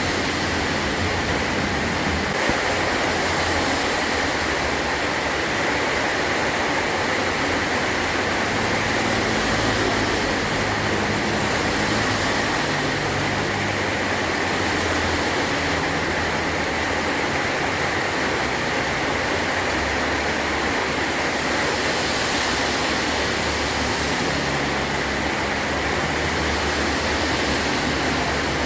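Heavy rain falling steadily on a metal roof, an even unbroken hiss, with a low rumble coming and going underneath.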